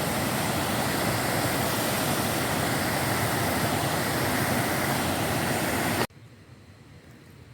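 Waterfall rushing as a steady, loud roar of water that cuts off suddenly about six seconds in, leaving only a faint background.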